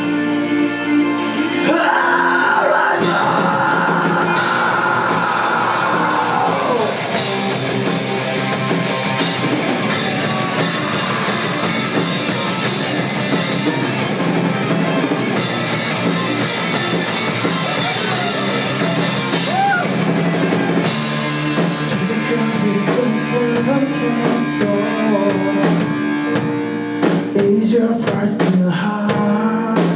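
A rock band playing live, with drum kit and guitars.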